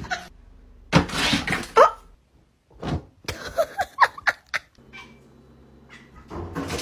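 A pet animal's calls: several short, pitched cries in quick succession, broken up by abrupt cuts between clips.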